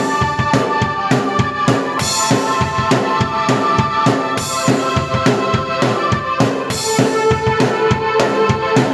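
Drum kit played at a fast rock tempo with kick, snare and cymbal crashes, over sustained synthesizer keyboard chords, one performer playing both at once.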